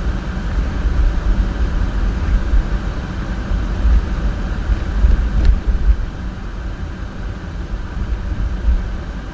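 Steady low rumble of a car being driven, engine and road noise, with two faint clicks about halfway through.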